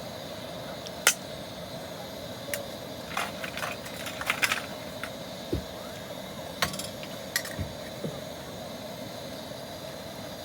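Scattered clinks and knocks of camp cooking utensils and dishes being handled, one sharp clink about a second in and a quick cluster in the middle, over a steady low hiss.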